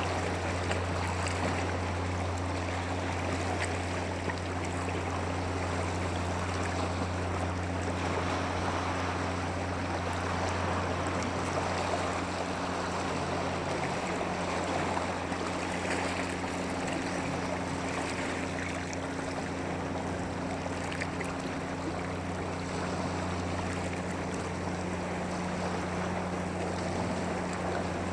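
Steady rush of flowing stream water, with a constant low hum underneath.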